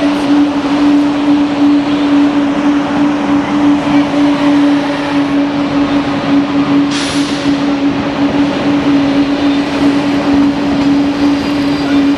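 Train running close by: a steady droning hum over loud rail and running noise, with a brief hiss about seven seconds in.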